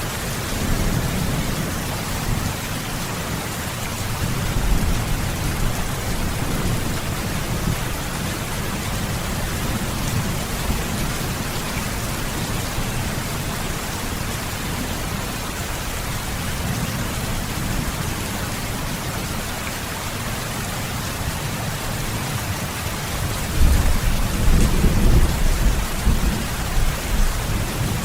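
Heavy rain falling steadily, with low rolling thunder underneath; a louder roll of thunder builds near the end.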